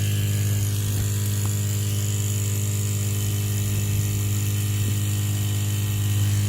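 Steady electric hum of a small 35 psi water pump feeding a tankless water heater, over a steady hiss.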